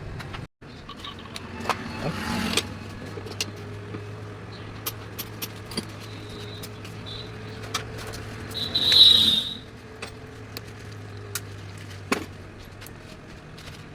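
Metal parts and hand tools clinking in sharp, scattered clicks during motorcycle engine assembly, over a faint steady hum. A short loud hiss comes about nine seconds in.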